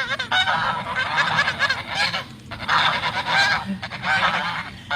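Goose honking loudly and repeatedly, harsh calls coming in several runs with short breaks between them.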